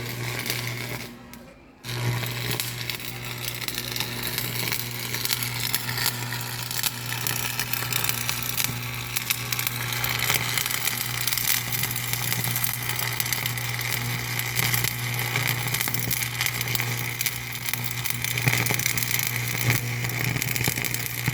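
A machine running steadily with a low hum and a hiss, dropping away briefly about a second in, then running on unbroken.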